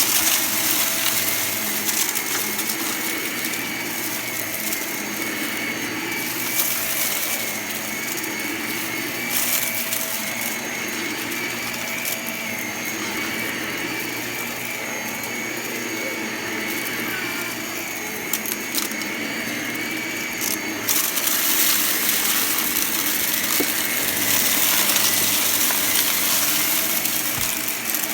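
Vacuum cleaner running with a steady high whine while it sucks up crunchy debris, which crackles and rattles through it in scattered clicks. The hiss grows louder for a long stretch in the last third.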